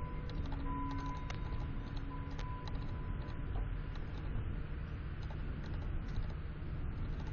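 Small birds at a window feeder making irregular light taps and clicks as they peck and move about, over a steady low rumble, with a faint ringing tone in the first few seconds.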